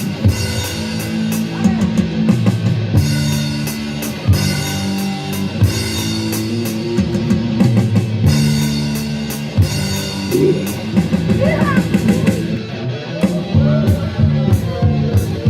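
A live band playing rock: guitar chords over a drum kit, with steady cymbal strokes and chord changes every second or two.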